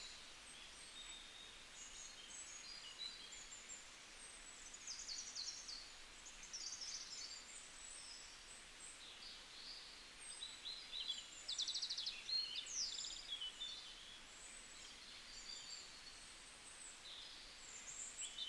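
Small birds chirping, with many short high calls and quick trills that are busiest about two-thirds of the way through, over a faint steady hiss.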